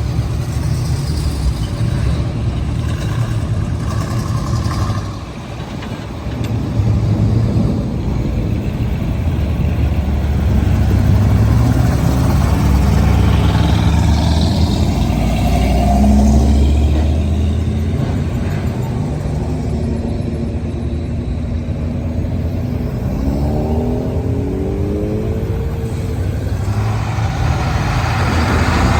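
Car engines running, with a steady low drone. The pitch rises as an engine revs or pulls away about halfway through and again near the end.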